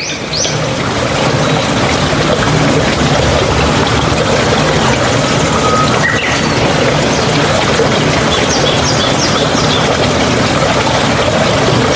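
Steady rushing noise with a few faint, short high bird chirps near the start and again about nine seconds in.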